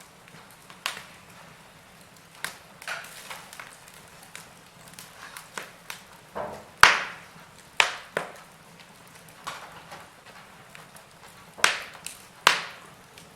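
Fire in a fireplace crackling: irregular sharp pops and snaps over a faint steady hiss, the loudest pops about halfway through and twice near the end.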